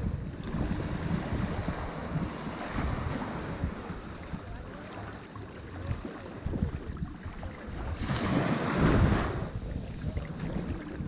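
Ocean waves washing and breaking on a shore, a steady surf hiss with one wave breaking louder about eight seconds in. Wind rumbles on the microphone underneath.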